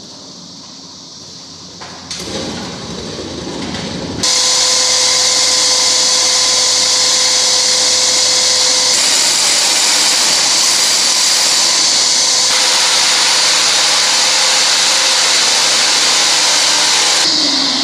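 Electric diamond core drill boring through a concrete floor slab. The motor starts about two seconds in, and about two seconds later the noise jumps to a loud, steady cutting whine that stops near the end as the drill spins down.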